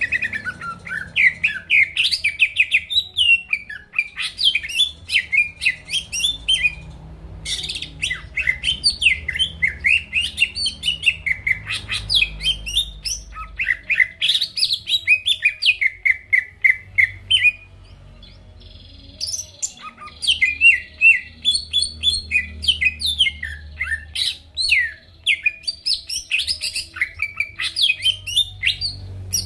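Cucak ijo (green leafbird) singing a fast, varied song of whistles and chattering notes in long bursts, with two short breaks, about a quarter of the way in and again around two-thirds through.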